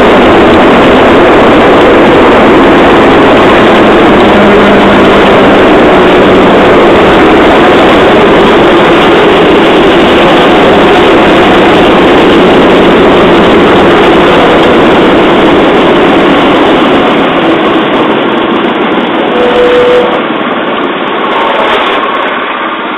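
Handmade rail trolley running along the track, its engine and wheels loud and close, quieter near the end as it slows.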